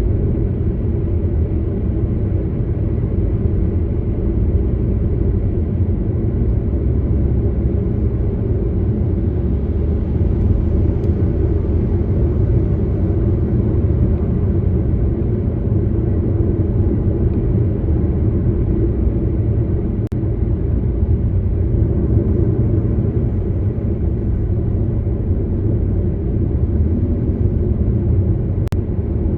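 A car driving at a steady speed: an even low rumble of road, tyre and engine noise.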